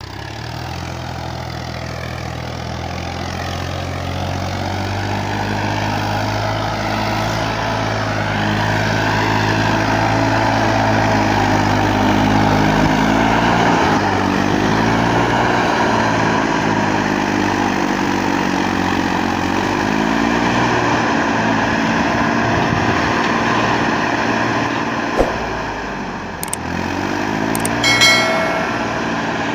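Massey Ferguson 35 tractor's diesel engine running hard, its speed rising and falling several times as it strains to pull a trolley out of mud. A sharp click comes about 25 seconds in, and a short, high, ringing tone near the end.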